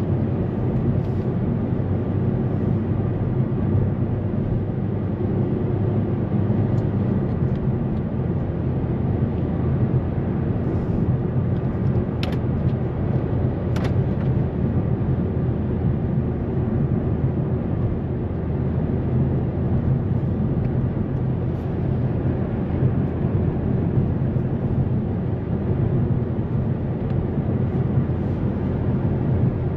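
Mazda 3 2.0-litre four-cylinder petrol engine running at a steady cruise, heard inside the cabin with tyre and road noise. Two short clicks sound midway, about a second and a half apart.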